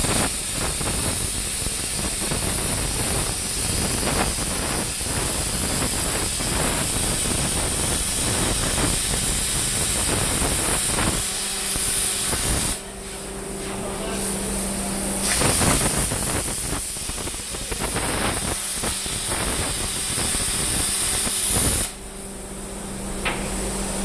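Plasma cutter torch hissing steadily while it cuts, in two long runs. About thirteen seconds in and again near the end, the hiss cuts off and a steady low hum is left.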